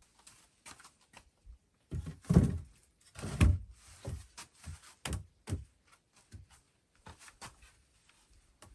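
A series of irregular knocks and thunks, with the two loudest about two and a half and three and a half seconds in, and lighter knocks after them.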